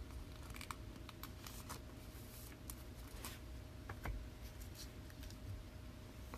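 Faint scattered clicks and scrapes of trading cards being handled and slid, with a sharper click about four seconds in, over a faint steady hum.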